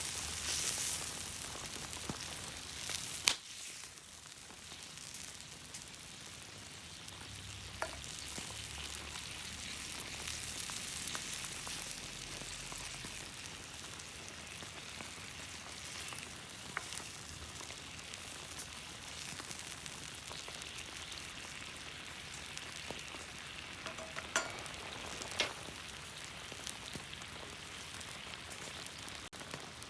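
Food frying in a pan over a campfire: a steady sizzling hiss. A sharp knock comes about three seconds in, and a few lighter knocks follow later.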